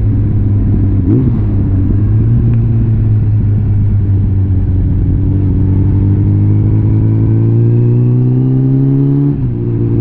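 Suzuki GSF650 Bandit's inline-four engine through a complete Arrow exhaust system, running under way. Its pitch climbs slowly for several seconds, then falls sharply near the end.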